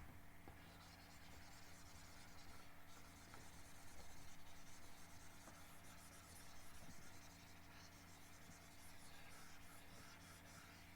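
Faint handwriting: a pen scratching over a writing surface in uneven strokes that come and go in waves.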